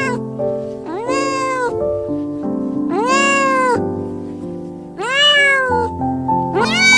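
An animal calling three times, each call about a second long, rising and then falling in pitch, with a fourth call starting near the end, over background music.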